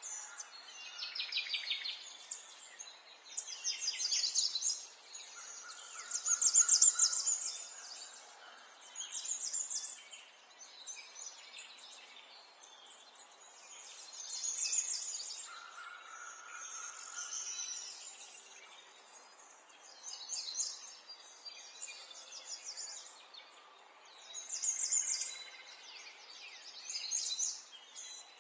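Songbirds singing: short, high, rapid trilled phrases repeating every two to three seconds over a faint steady background hiss.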